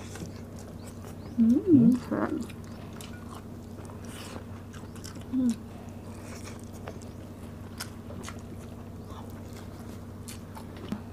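Close-up sounds of two people eating fried pompano and rice by hand: chewing and mouth clicks over a steady low hum. A short loud vocal sound comes between about one and a half and two and a half seconds in, and a smaller one a little past five seconds.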